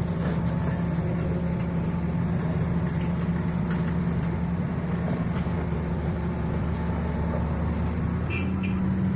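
Heavy diesel engine running steadily at constant speed, its low hum stepping up slightly in pitch about eight seconds in.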